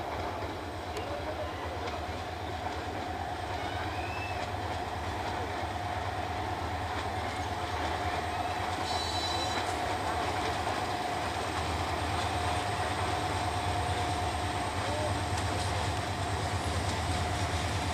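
Diesel locomotive and passenger coaches of an approaching train, a steady rumble that grows gradually louder as the train nears.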